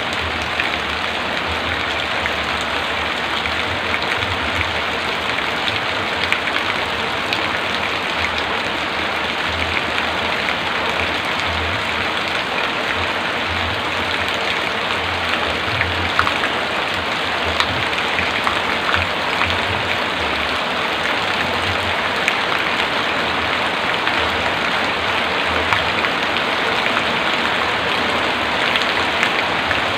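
Heavy rain falling steadily, a dense even hiss with many individual drop impacts ticking through it and an uneven low rumble underneath.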